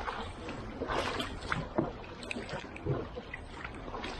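Dragon boat under way, its paddles splashing and pulling through the water in strokes about a second apart.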